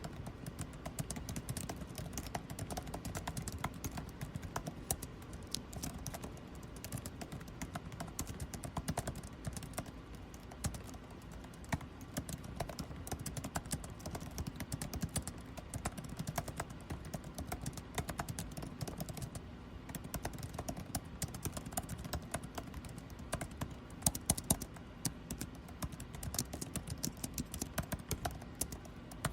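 Continuous typing on a computer keyboard, a dense, uneven patter of key clicks with a few louder strikes about four fifths of the way in, over a steady low hum of air conditioning.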